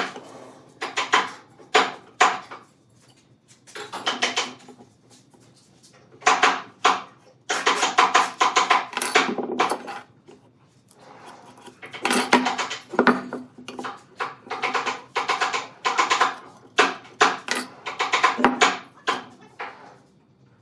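A hand tool working wood in repeated bursts of quick scraping strokes, with short pauses between bursts.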